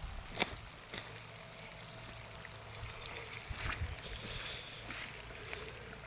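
Rainwater runoff trickling and flowing along the ground, with a few short clicks.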